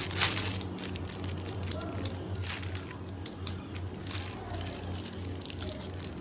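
Handling noises, rustles and several sharp clicks, over a steady low hum.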